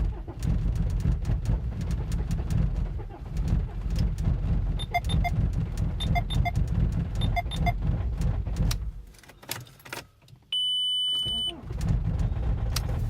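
Cold Volkswagen BHW 2.0 litre four-cylinder TDI diesel struggling through a cold start with only one working glow plug, turning over and running roughly with uneven knocks. Pairs of short electronic beeps come in the middle of it. The engine sound drops out about nine seconds in, a single steady beep sounds for about a second, then the rough engine noise comes back.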